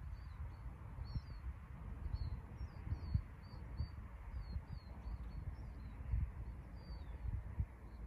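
Small birds chirping: many short, quick high calls repeated throughout, over a low, irregular rumble with soft thumps.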